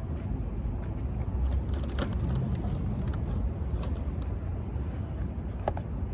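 Steady low rumble of a motor vehicle, with scattered light clicks and rustles over it.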